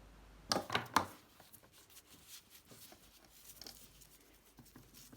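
Light handling noises: a few sharp clicks and knocks about half a second to a second in, then faint scattered tapping and rustling.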